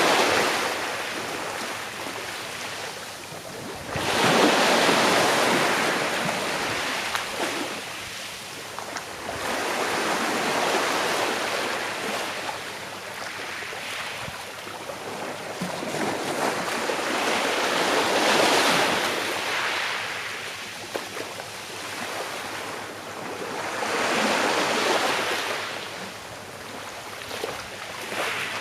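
Gentle sea waves breaking and washing up a shore, each wave a swelling hiss that fades away, about every four to eight seconds.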